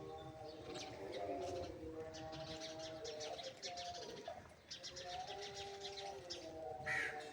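Several birds calling together: quick high chirping trills repeat over lower, drawn-out cooing notes, with a short louder call near the end.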